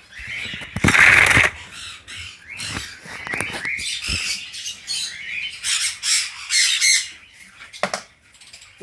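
Sun conures screeching: one loud harsh screech about a second in, then a run of shorter shrill calls. A single knock near the end.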